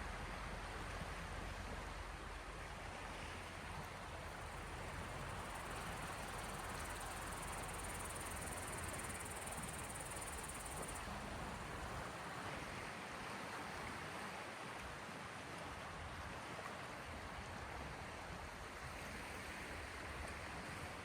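Small waves of the Gulf of Finland washing against the shore: a soft, steady wash of water that swells and eases slightly.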